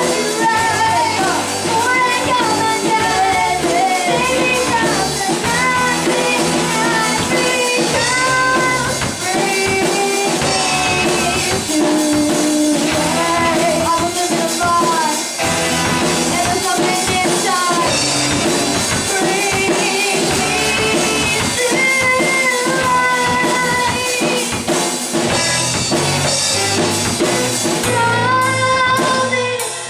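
Live amateur rock band playing a cover song, with a female lead vocal over drum kit, electric guitar, bass and keyboard.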